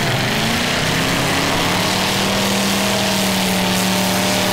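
Demolition derby cars' V8 engines running hard at high revs. One engine note climbs over the first couple of seconds and then holds steady, over a wash of noise.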